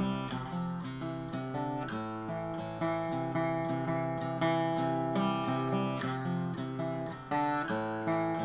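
Acoustic guitar strumming chords in an instrumental passage of an Americana-style song, with no vocals.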